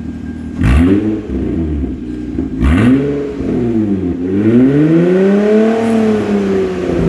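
2005 Hyundai Tiburon engine with its catalytic converter cut out, exhausting straight from the headers. It idles, then is revved three times: two quick blips, then a longer rev held high that drops back near the end.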